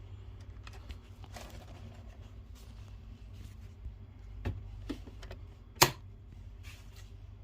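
A few scattered light clicks and knocks over a low steady hum, the sharpest and loudest about six seconds in.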